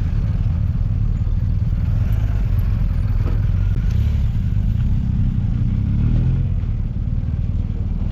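Motorcycle engine running steadily under a heavy low rumble, with a brief rise in pitch about six seconds in.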